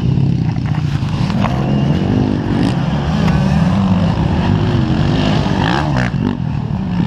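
Motocross bike engines revving on the track, their pitch rising and falling as the bikes accelerate and ease off.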